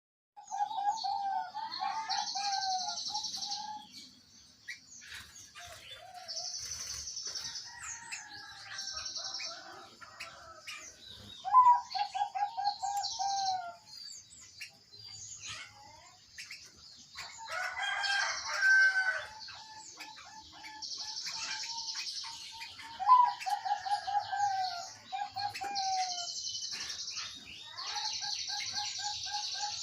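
Zebra dove (perkutut) cooing in runs of quick, evenly spaced notes that dip slightly in pitch, repeated several times. High buzzy bursts and chirps sound in between.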